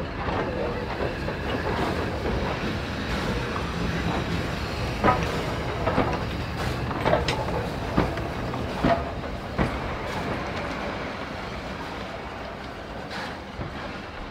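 A train rolling past: a steady rumble of wheels on track, with a run of sharp clicks about once a second through the middle as the wheels cross rail joints. The sound swells and then fades away toward the end.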